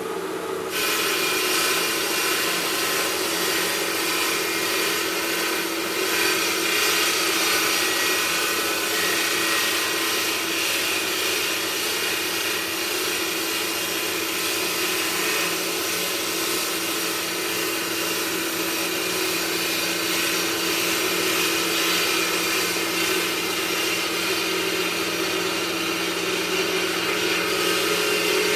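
Marble-processing machine grinding stone steadily: a constant motor hum under a continuous rasping hiss. The hiss grows fuller and louder about a second in.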